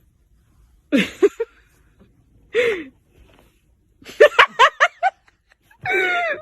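A person laughing: two breathy laughs with falling pitch, then a quick run of short laughs about four seconds in, and a longer voiced sound near the end.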